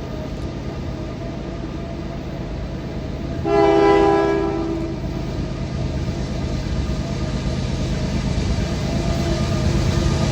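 Diesel freight locomotive running steadily and getting gradually louder, sounding one blast of its air horn, a chord of several tones, about three and a half seconds in that lasts about a second and a half.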